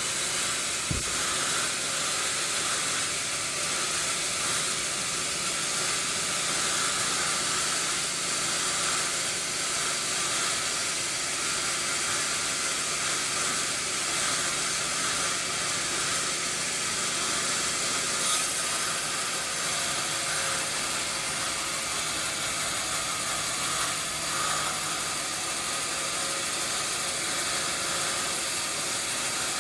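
Sawmill machinery running steadily, a constant high hiss with no change in level.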